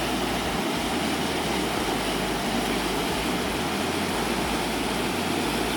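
Water pouring down a dam spillway: a steady, even rush of white water.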